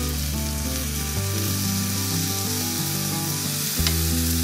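Skewered prawns coated in a sweet soy spice paste sizzling steadily as they grill in a nonstick pan.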